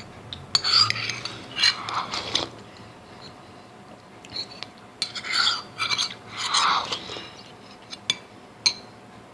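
An eating utensil scraping and stirring in a nearly empty soup bowl, in two spells, with a couple of sharp clinks near the end.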